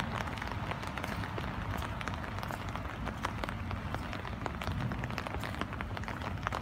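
Steady rain falling, with many separate close drops ticking sharply at irregular moments over a low rumble.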